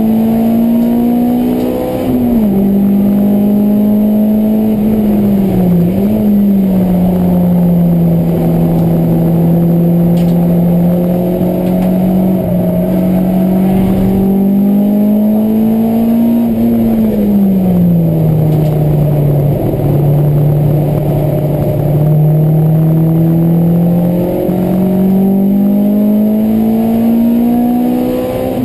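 Honda Civic EK4's 1.6-litre VTEC four-cylinder engine at high revs, heard from inside the cabin on a hard track lap. The engine note climbs steadily and drops sharply with gear changes about two seconds in and six seconds in, and again at the very end. It falls more slowly in the middle as the car slows for a bend.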